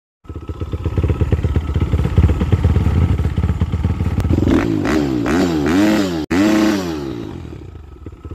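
Motorcycle engine running, then revved up and down several times in quick succession. The sound breaks off abruptly just past the middle, resumes, and fades towards the end.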